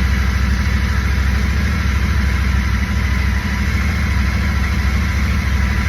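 Royal Enfield Super Meteor 650's 648 cc parallel-twin engine idling steadily.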